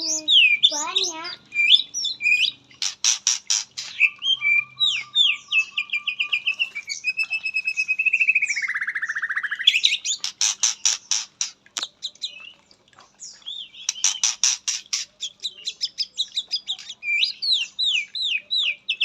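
White-rumped shama (murai batu) singing a long, varied song of rapid trills, whistled up-and-down sweeps and a drawn-out falling buzzy phrase about eight seconds in. The song mixes in imitated calls of other birds.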